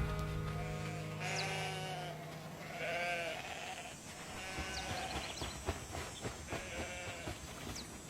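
Sheep bleating about five times, with short high chirps and soft background music.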